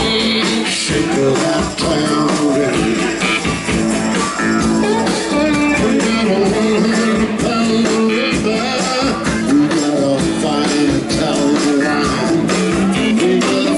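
Live blues-rock band playing, with electric guitar to the fore over a steady, full band sound.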